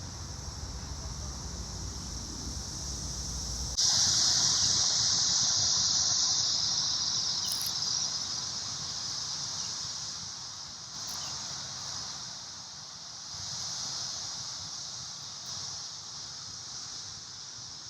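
Chorus of Brood X periodical cicadas: a steady, high-pitched droning whine. It jumps sharply louder about four seconds in, then swells and fades in slow waves.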